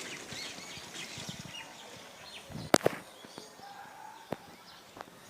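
Faint bird chirps over outdoor background noise, with two sharp clicks close together near the middle.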